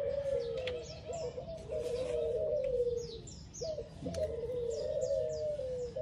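Birds calling: a continuous low, wavering cooing that restarts about once a second, with groups of quick, high, falling chirps over it.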